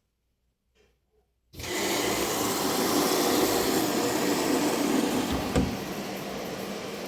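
Arçelik 9100DMX washing machine running: a steady rushing noise starts suddenly about a second and a half in and eases slightly near the end.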